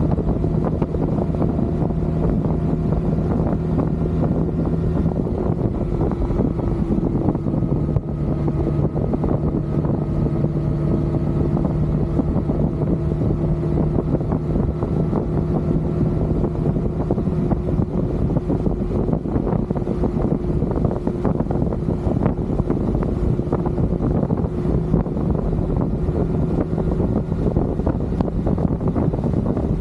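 Motorcycle engine running at a steady cruising speed, its pitch nearly constant throughout, with wind rushing over the microphone.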